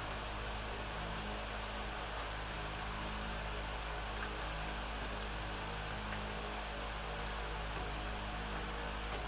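Steady low hum with a faint high-pitched whine, unchanging throughout, with no distinct knocks or clicks.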